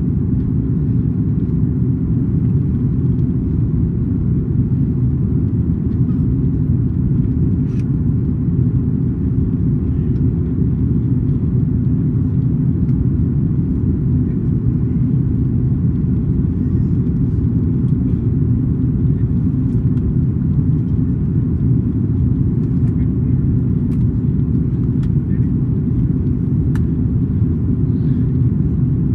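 Steady low rumble of an Airbus A330-200's engines and airflow heard inside the passenger cabin, with a few faint ticks.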